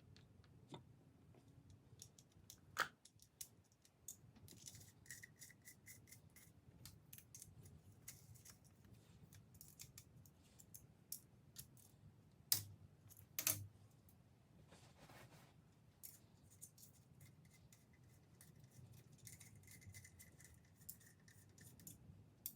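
Faint clicks, taps and scrapes of small hand tools on metal as set screws are worked into the oil holes of a Gen 4 5.3 litre LS engine block, with a few sharper clicks about three seconds in and twice around the middle.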